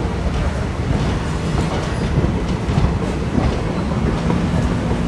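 Indian Railways passenger coaches rolling past close by: a steady rumble and clatter of steel wheels on the track.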